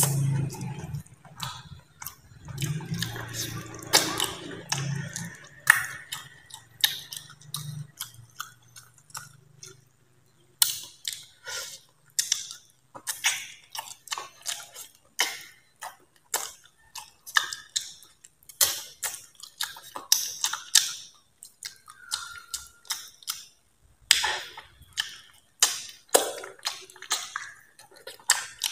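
Close-up eating sounds: a man chewing steamed eel and smacking his lips in a fast, irregular series of clicks, with a low hum in the first few seconds.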